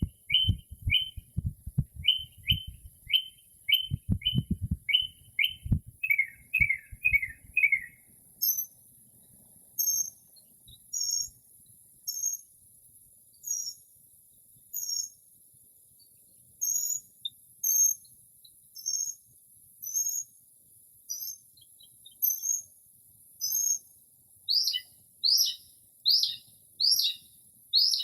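Northern mockingbird singing, running through a string of mimicked phrases, each repeated several times before it switches. First comes a quick series of short notes, about two a second, then a higher note repeated about once a second, then loud down-slurred notes near the end. Low thumps sound during the first several seconds.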